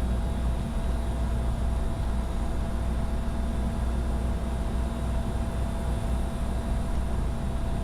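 Steady cockpit noise of a Bombardier Challenger 605 business jet in flight: a constant rush of airflow and air conditioning over a low hum, with faint steady tones above it.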